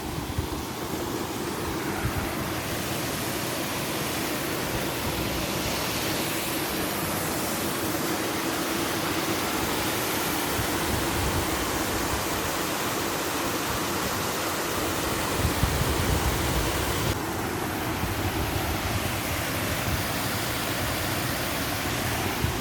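Wind blowing across the microphone: a steady rushing hiss with an uneven, gusty low rumble.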